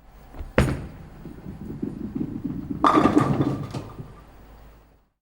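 A sharp knock about half a second in, then a low rumbling, clattering stretch with several more knocks about three seconds in; the sound cuts off suddenly near the end.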